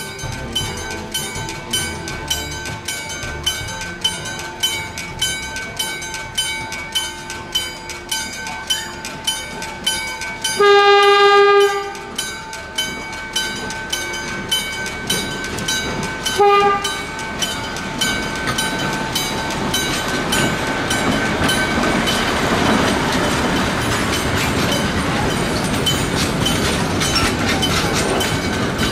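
A level crossing bell rings about twice a second as a narrow-gauge diesel locomotive approaches. The locomotive's horn gives one long blast about ten seconds in and a short toot about six seconds later. The bell stops around twenty seconds in, and the passenger carriages roll past with a steady rumble and wheels clicking on the rails.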